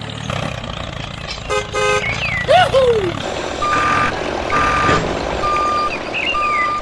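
Vehicle motor running steadily, with a short horn toot, a few gliding whistle-like tones, and then four evenly spaced reversing beeps, a little under one a second.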